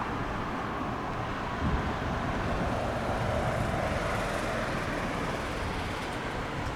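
Jet airliner's engines heard across the airfield as a steady rushing noise over a low rumble, swelling slightly a few seconds in.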